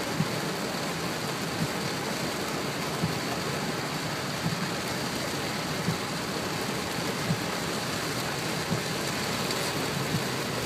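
Heavy rain falling steadily in a dense, even hiss, with a small sharp tap about every second and a half.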